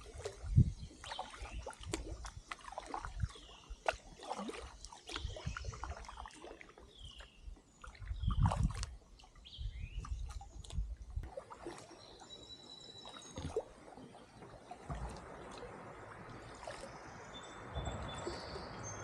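Canoe being paddled: irregular knocks and splashes of the paddles against the water and hull, with birds calling in short falling chirps. From about fifteen seconds in, the knocks thin out and a steadier hiss of water or wind takes over.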